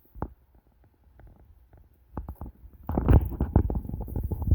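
A single sharp knock, then after a quiet stretch a fast, irregular run of loud low thumps and scraping knocks from about halfway in.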